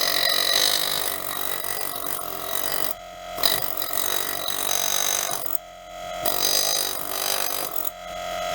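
A small power tool running in stretches of two to three seconds, with short pauses between, making a rough, steady mechanical sound.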